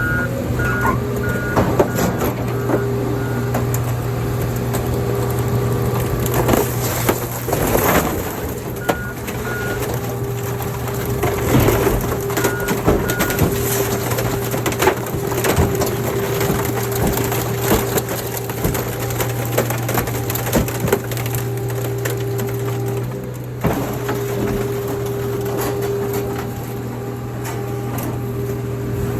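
Car crusher flattening a 1968 Dodge D200 truck and a 1988 Ford Taurus wagon: its engine-driven hydraulics run with a steady drone while the bodies creak, crunch and crack under the press. Short beeps sound a few times, near the start and around the middle.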